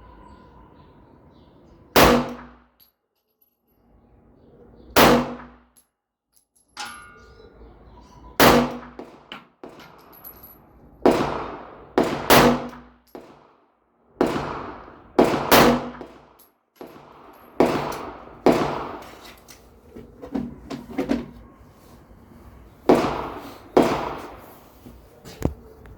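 Pistol shots fired one at a time from a Glock in a FAB Defense Roni carbine conversion kit, about sixteen reports at uneven intervals, each with a short ringing tail.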